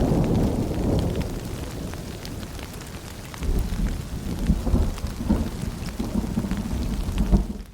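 Rain with rolling thunder: a low rumble fades over the first few seconds and another rolls in about three and a half seconds in, with scattered drops pattering throughout. The sound cuts off abruptly at the very end.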